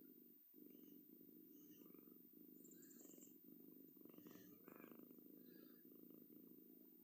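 Domestic cat purring, faint and steady, with a continuous fast, even pulse.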